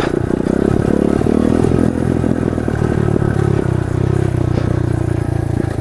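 Pit bike's small single-cylinder engine running steadily under throttle while climbing small hills.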